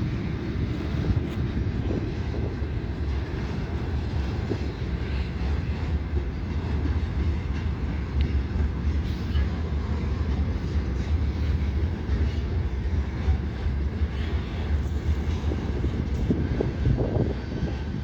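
Train running by with a steady low rumble and rolling noise, without a break.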